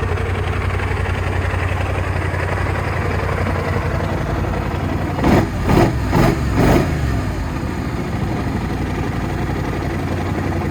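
2016 BMW C650GT maxi scooter's 647 cc parallel-twin engine idling steadily, given four quick throttle blips about halfway through, each revving up and dropping straight back to idle.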